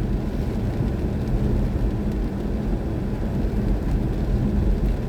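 Steady low rumble inside the cabin of a BMW i4 M50 electric car on the move: mostly tyre and road noise, with no engine sound.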